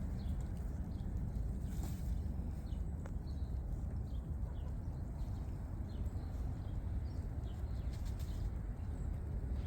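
A steady low rumble with scattered faint, short, high chirps from birds, several a second at times.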